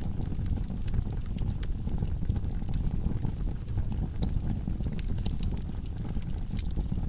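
Log fire burning in a fireplace: a steady low rumble of flames with frequent sharp crackles and pops of the burning wood.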